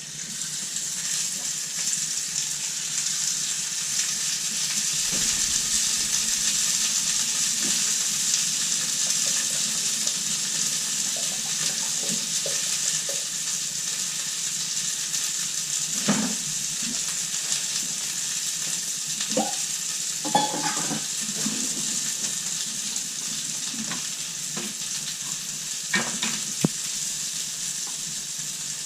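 Food sizzling steadily in a hot frying pan, with a few light knocks and scrapes of a utensil against the pan.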